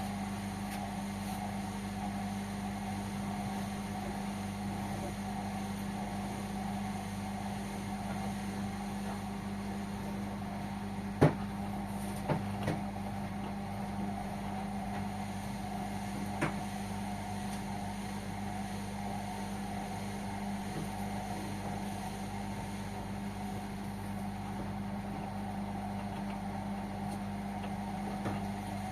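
Indesit washing machine running with a steady, even hum, broken by a few short clicks or knocks about a third of the way in and one more a few seconds later.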